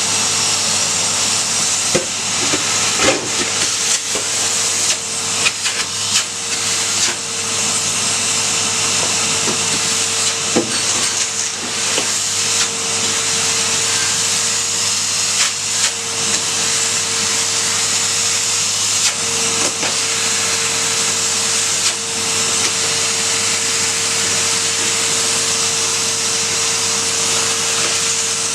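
Hoover vacuum cleaner running steadily, a constant motor hum with rushing air, with scattered sharp knocks in the first half.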